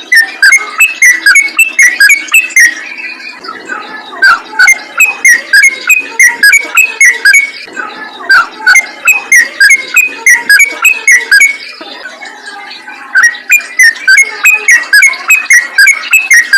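Sooty-headed bulbul (trucukan) singing a fast, continuous run of short chattering notes, several a second. The run breaks off briefly after about three seconds and again about three quarters of the way through.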